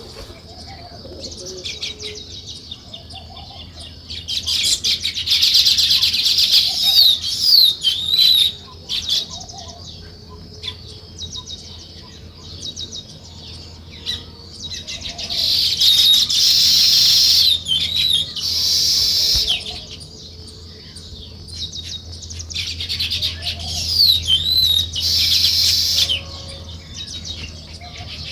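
Sparrows chirping in quick, dense spells that swell loud three times and die down to scattered chirps in between.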